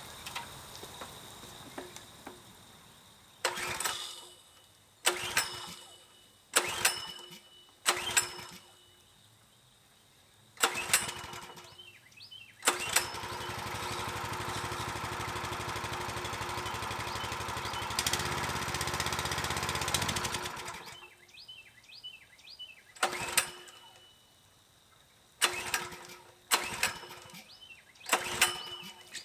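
Small gas engine of a Kohler-powered pressure washer being pull-started after long storage with fuel left in the carburetor: several short recoil pulls that each sputter out, then the engine catches and runs for about eight seconds before dying, followed by four more pulls.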